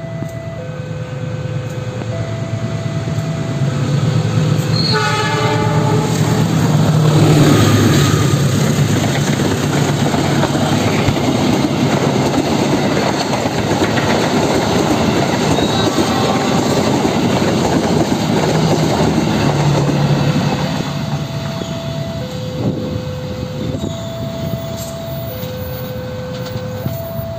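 Level-crossing warning bell ringing two alternating notes. About five seconds in a locomotive's horn sounds, and the passenger train then rolls past for about fifteen seconds, its wheels clacking over the rail joints. The two-note crossing bell is heard again near the end.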